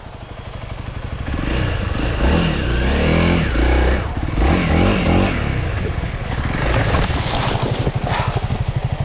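Honda CRF300L's single-cylinder four-stroke engine running under a rider on a dirt trail, the revs rising and falling a few times about two seconds in, then holding steadier.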